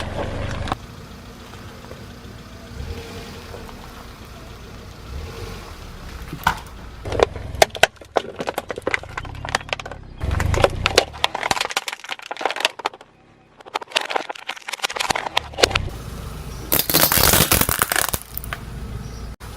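A car's tyre rolling over and crushing brittle objects: a run of sharp cracks and crunches, a short quiet gap, then a loud stretch of crunching near the end.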